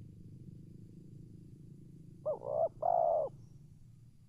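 Spotted dove cooing once, about two seconds in: a short note followed by two longer coos, the last the longest, over a steady low hum.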